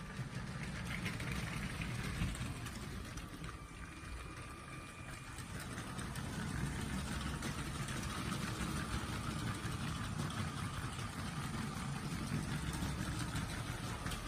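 Motorized LEGO train running on plastic track: a steady motor whine over a low wheel rumble with fine clicking, dipping a little about four seconds in and then swelling again.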